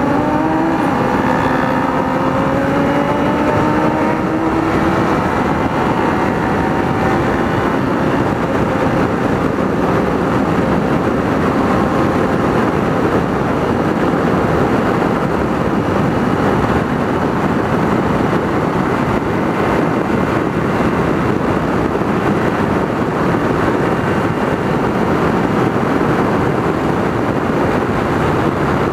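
Ride on a Kawasaki Ninja 300 motorcycle: the engine note rises as it accelerates in the first few seconds, then steady wind rush and engine drone at cruising speed.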